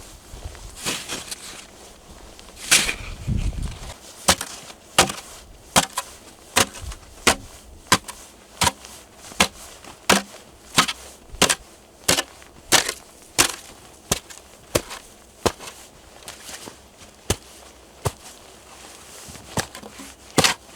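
Wood being chopped, likely with a hatchet: a steady run of sharp knocks about one every 0.7 seconds through the middle stretch. The strokes come more sparsely near the end.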